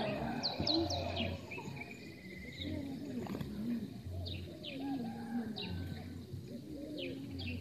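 Birds calling: short, high, falling chirps repeating roughly every second, over lower, curving calls underneath.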